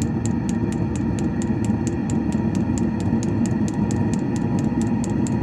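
Diesel heater's fuel dosing pump ticking in a fast, even rhythm as it pumps fuel to the heater, over the steady low rumble of the heater running.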